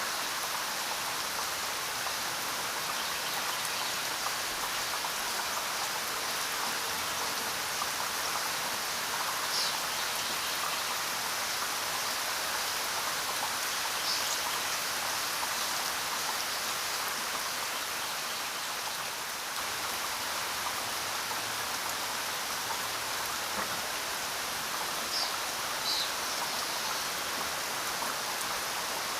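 Steady rain falling: an even hiss of drops hitting the ground and foliage. A few brief high-pitched sounds stand out now and then.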